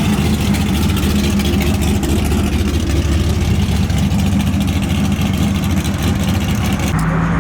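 Car engine idling steadily, its exhaust note holding one pitch. The sound changes abruptly about seven seconds in.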